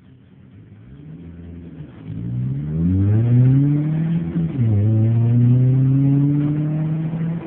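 A car engine accelerating hard from a standing drag-race start, its pitch climbing steeply and growing louder. It drops at an upshift about four and a half seconds in, then climbs again until another shift near the end.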